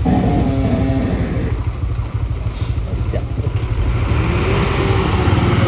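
Heavy lorry engine running with a steady low rumble, its note shifting as it works.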